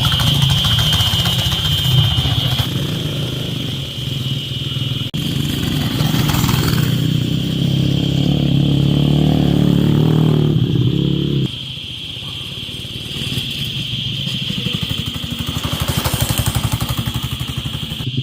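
Small petrol engine of a ride-on vehicle running under throttle, revving up near ten seconds in and dropping back to a lower, steady run about a second later.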